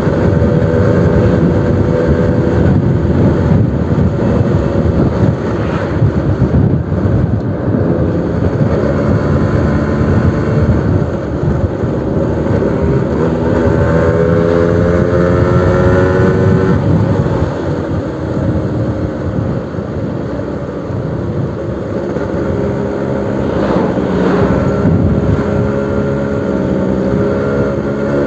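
Suzuki RC100 single-cylinder two-stroke engine running through a new aftermarket exhaust, its pitch rising and falling repeatedly as it is revved, a little quieter for a few seconds past the middle.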